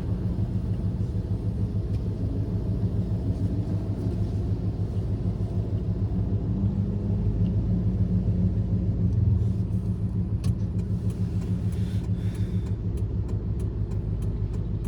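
Ram pickup truck's engine running, a steady pulsing low rumble heard from inside the cab, swelling slightly midway; the owner suspects something is wrong with it after an oil change. A series of light clicks comes near the end.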